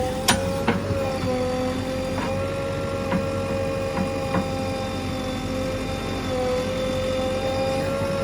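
JCB 3DX backhoe loader running while digging: a steady whine from the machine, with several sharp clanks in the first half.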